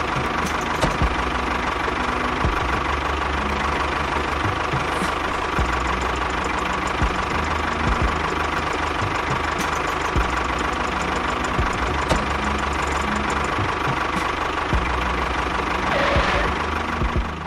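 Engine running steadily, a continuous low drone with a constant whine over it.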